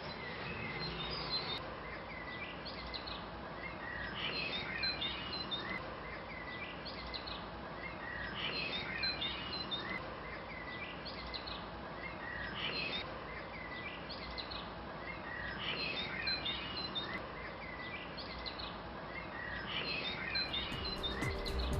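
Birdsong: a songbird repeating a short chirping phrase about every four seconds, over a steady low background hiss.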